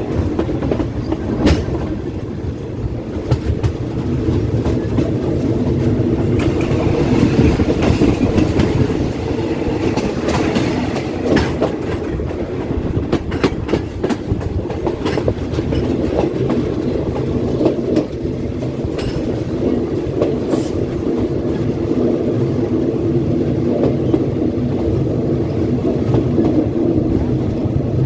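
Passenger train rolling at moderate speed, heard from an open coach window: a steady rumble of wheels on rail with repeated clicks and clatter as the wheels cross joints and points, a little louder for a few seconds near the start.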